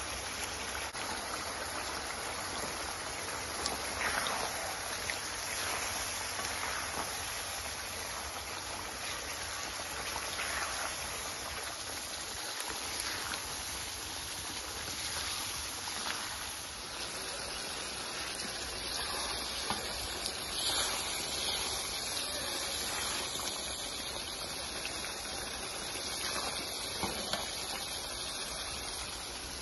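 Mutton karahi gravy sizzling and bubbling in a wok over a gas flame, a steady hiss, with a few brief scrapes of a ladle stirring it.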